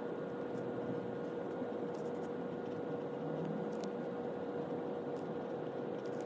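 Steady background hiss with a faint constant hum.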